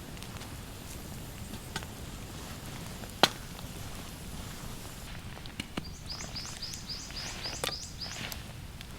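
A few sharp knocks, the loudest about three seconds in, over a steady outdoor hiss; from about six seconds in a bird gives a quick run of short repeated chirps.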